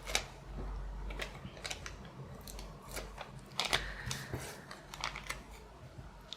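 Paper and double-sided tape being handled and pressed down: a scattering of crisp, irregular clicks and crinkles.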